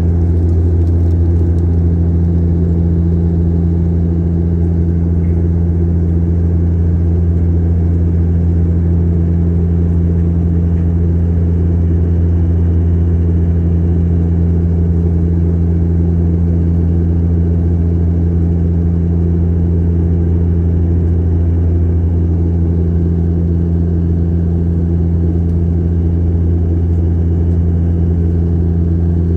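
Airliner cabin noise in flight: the steady, loud drone of the engines with a deep hum and a second, higher hum above it, unchanging.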